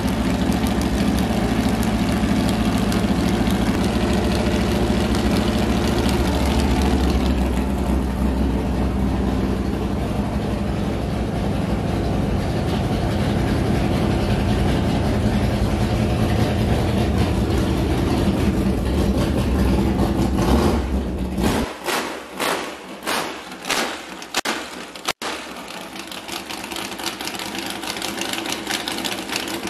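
Carburetted 355 small-block Chevy V8 with open headers, mounted behind the cab of an S10 pickup, running steadily at idle with a deep rumble. About two-thirds of the way through the low rumble drops away and a quick run of sharp pops follows, then a thinner steady sound.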